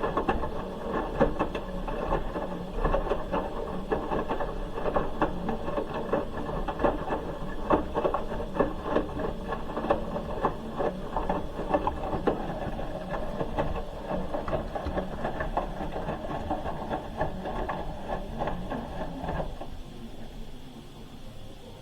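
Hoover H-wash 300 Plus front-loading washing machine tumbling its load during the wash: the drum motor hums while the clothes thud and clatter in the turning drum. Near the end the drum stops turning and only a quieter hum remains.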